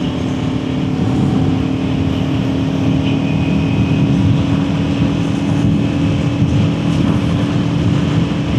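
Kawasaki Ninja 400's parallel-twin engine running at a steady cruising speed, holding one even pitch, with wind and road noise rushing past.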